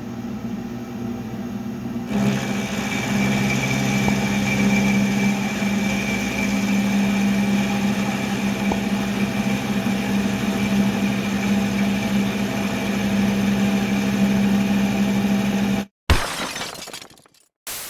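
Machine tool running steadily with a harsh, rough noise over its motor hum, stepping up in level about two seconds in and cutting off abruptly near the end, followed by two short sharp sounds.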